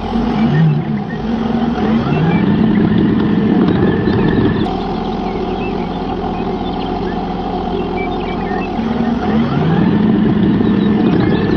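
A motor vehicle engine running continuously, its pitch rising and then holding twice, about two seconds in and again near the end, as it revs up.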